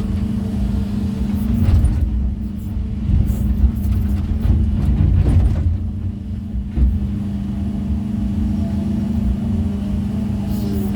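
A heavy construction machine's engine runs with a steady hum over a low rumble. Several knocks and heavier rumbling come in the middle, as stone is worked.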